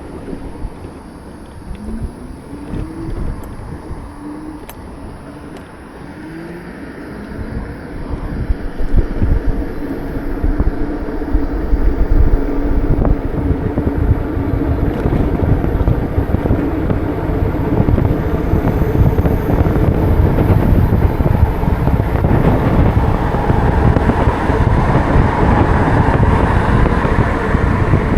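Traffic noise on a moving ride through city streets, with a few short rising tones from a vehicle early on. About eight seconds in, a loud rumble of wind on the microphone and road noise builds up as speed picks up, and it then holds steady.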